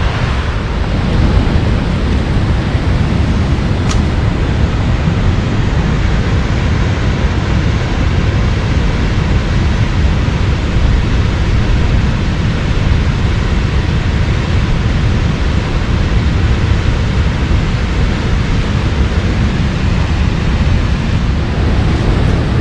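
Waterfall rushing, a loud steady roar of falling water with no change throughout.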